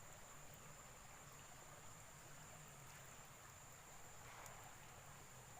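Near silence with a faint, steady high-pitched trill of insects.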